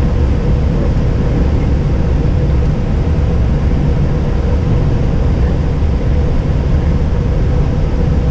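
Steady cockpit noise of an Airbus airliner on the ground with its engines running: a loud, even low rumble with a faint steady hum.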